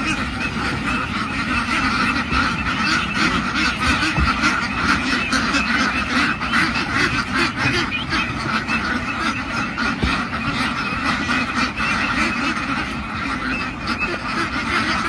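A large flock of ducks quacking all at once, a dense, continuous clamour of many overlapping calls.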